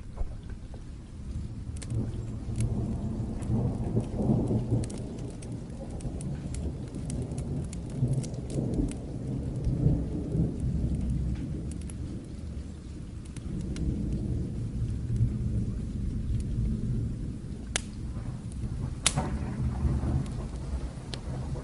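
Distant thunder rumbling in slow swells that rise and fade several times, over steady rain. Sharp crackles of a wood fire are scattered throughout, the strongest snapping a little before the end.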